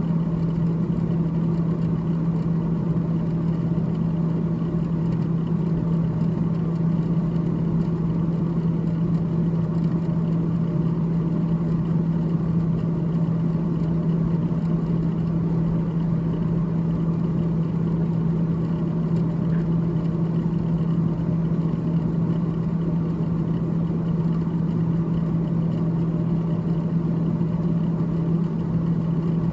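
Freezer fan of a GE GTH18XCTZRBB refrigerator running, a steady low hum with a rush of air beneath, unchanging throughout.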